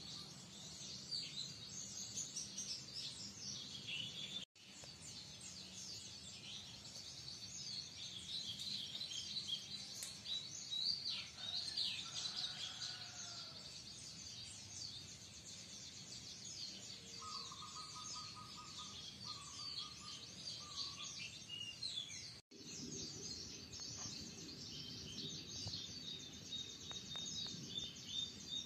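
Many small birds chirping and twittering over a low, steady outdoor background noise. The sound cuts out briefly twice.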